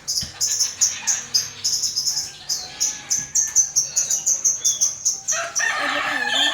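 Small birds chirping rapidly and high-pitched, several chirps a second; near the end a rooster starts crowing loudly over them.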